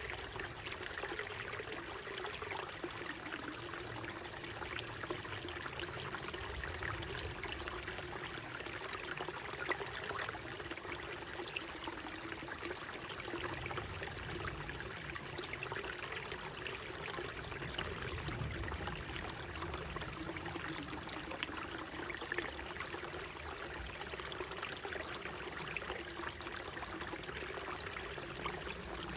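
Small mountain stream flowing steadily, an even rush of water with many small trickles and splashes through it.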